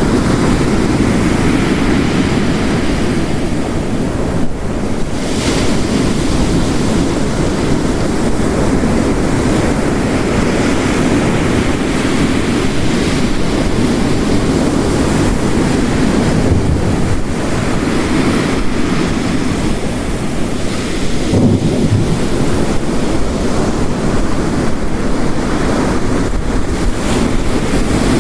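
Heavy rain and ocean waves crashing on the shore, layered into a steady, dense wash of noise that swells and eases slowly.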